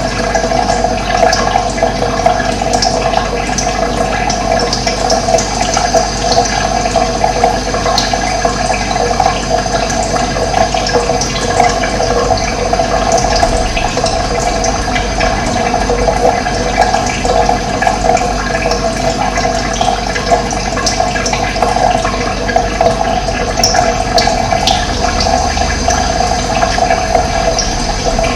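Steady running water, an even, continuous rushing, with faint bird chirps here and there.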